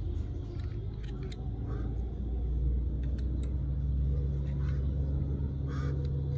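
A steady low rumble and hum, like a motor running, with a few light clicks and taps over it.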